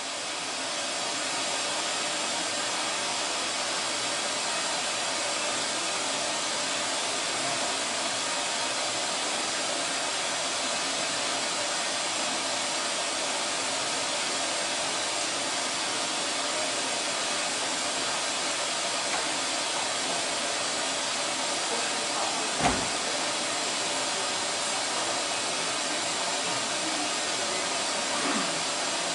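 Steady rushing hiss, like air blowing, that starts abruptly, with a single sharp click about three-quarters of the way through.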